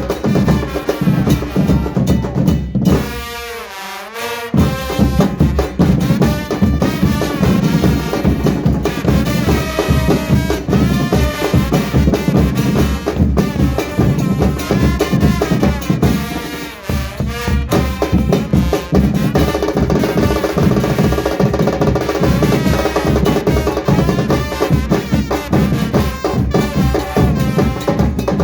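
Murga band playing: bass drums and snare drums beating a steady, driving rhythm with a melody over them. The drums break off briefly about three seconds in and come back in a second or so later.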